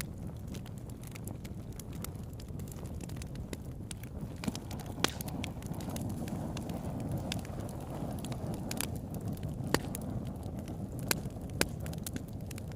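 Wood campfire burning: a steady low rumble of flames with sharp crackles and pops of burning wood scattered through, several louder snaps in the second half.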